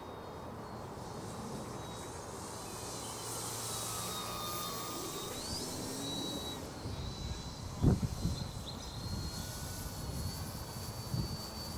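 Electric brushless motor and propeller of a Durafly Ugly Stick V2 RC sport plane in flight, a steady drone with a thin high whine that shifts slightly in pitch. A sudden thump about eight seconds in, and another near the end.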